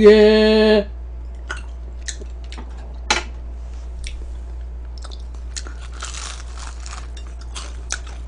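Close-up crunching and chewing of crispy fried chicken: a few separate crisp bites at first, then denser crunching in the second half.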